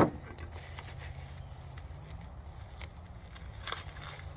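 Parts and packaging being handled: a sharp knock right at the start, then faint scattered clicks and rustles over a steady low hum.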